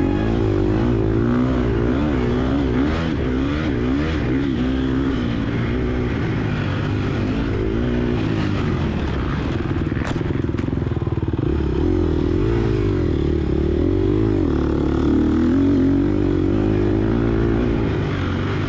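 Gas Gas EX250F dirt bike's 250 cc four-stroke single-cylinder engine, ridden hard, its pitch rising and falling over and over as the throttle is worked. A couple of brief sharp clicks sound about ten seconds in.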